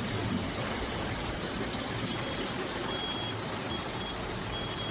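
Heavy rain and floodwater hissing steadily. From about two seconds in, a high electronic beep sounds four times at an even pace.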